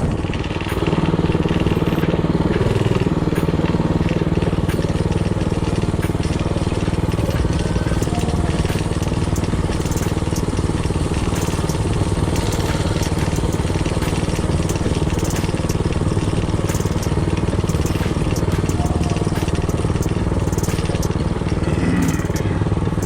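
Predator 224cc single-cylinder four-stroke engine on a mini bike running steadily under way, with scattered clicks over the engine note.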